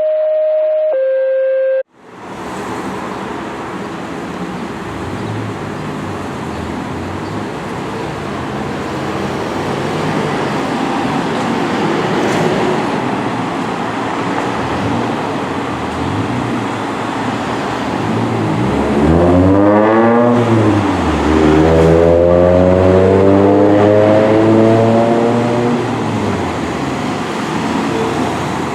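A brief electronic tone, then a fire engine's diesel engine and road noise growing louder. Near the end the engine note rises, drops as if at a gear change, then climbs again as it accelerates.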